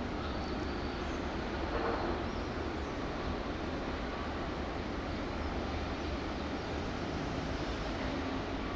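Steady outdoor background noise: a low rumble with an even hiss over it, slightly louder for a moment about two seconds in.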